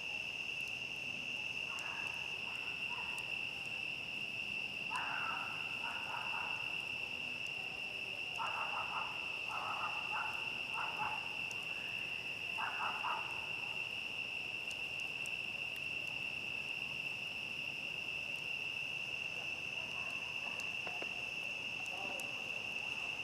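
A chorus of crickets chirring as one steady, unbroken high-pitched drone, with a few faint clicks from a crackling campfire.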